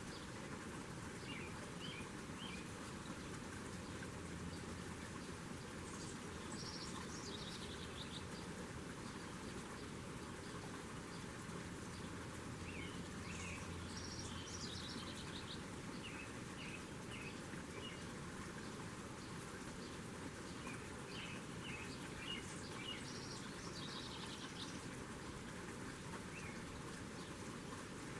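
Small birds chirping in short, quick groups of high notes every few seconds, over a steady background hiss.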